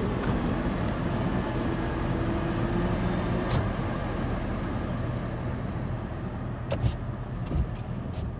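A motor vehicle engine running steadily, with a few short knocks near the end.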